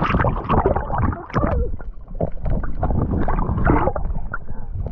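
Water sloshing, splashing and gurgling right at the microphone as it bobs at the surface, in a run of irregular bursts.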